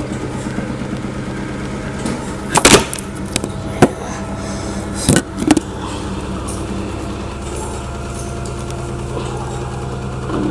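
LG washing machine running with a steady motor hum, broken by several loud knocks and clatters about three to five seconds in.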